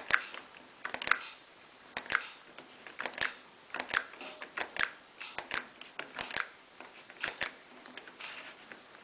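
Sharp clicks, mostly in quick pairs about once a second, from the controls of a Miele PW6055 Plus washing machine as its program and settings are stepped through.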